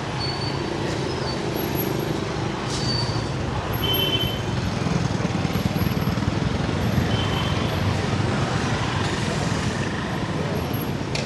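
Steady city street traffic noise, a continuous rumble of passing vehicles, with a couple of short high tones about 4 and 7 seconds in.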